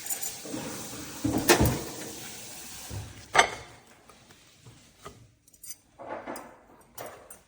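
Kitchenware being handled: a series of clinks and knocks, the loudest two in the first half, over a steady hiss that dies away about halfway through.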